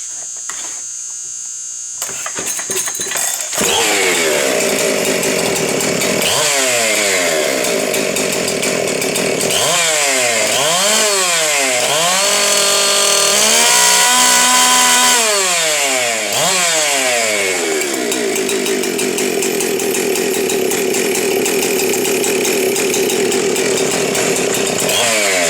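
Ported and re-timed Husqvarna 372 XP two-stroke chainsaw firing up about three seconds in and then being revved up and down several times. It is held at high revs for a few seconds around the middle, then runs steadily near the end.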